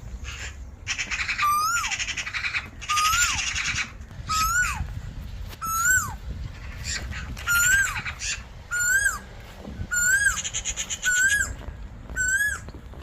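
A bird calling over and over, a short harsh note that rises then drops steeply, about once a second. A buzzy rattle sounds behind it twice, once for a few seconds near the start and briefly near the end.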